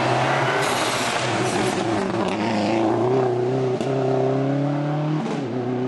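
Rally car engine pulling hard under acceleration, its pitch climbing steadily and then dropping sharply at a gear change about five seconds in, over loud road and tyre noise.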